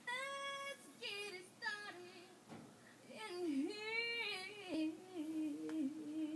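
Intro music: a solo singing voice holding long, wavering notes that slide between pitches, settling on a lower held note near the end, with no beat underneath.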